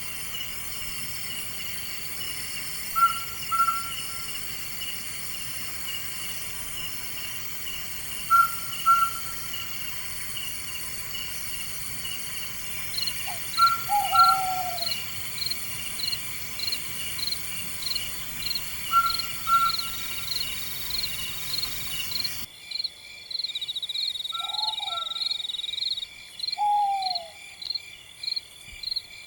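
A night bird repeating a short two-note call about every five and a half seconds over a steady chorus of crickets and other night insects. A lower, falling call joins a few times in the second half.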